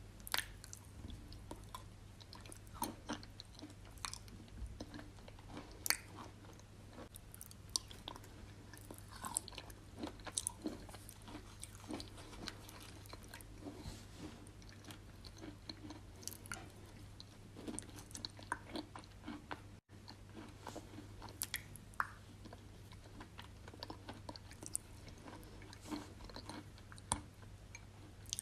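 Wet chalk with clay paste being chewed: irregular soft crunches and clicks, over a low steady hum.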